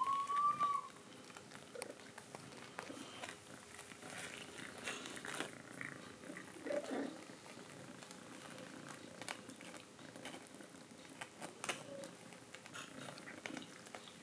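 Mother cat purring steadily, with a short rising chirp right at the start and another brief call about halfway through, among scattered soft clicks.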